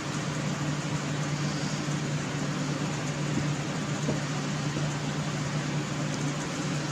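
Steady mechanical hum with an even hiss that does not change, the sound of a running appliance or fan motor in the room; a faint small tick about four seconds in.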